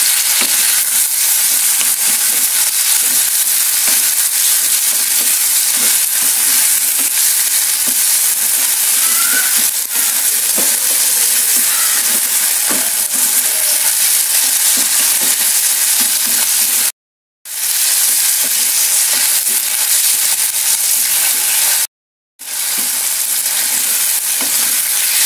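Marinated sliced beef sizzling in hot oil with garlic and ginger, stir-fried in a frying pan with a wooden spatula, a steady loud sizzle with small crackles and scrapes. The sound drops out abruptly twice for a fraction of a second, about two-thirds of the way through and again a few seconds later.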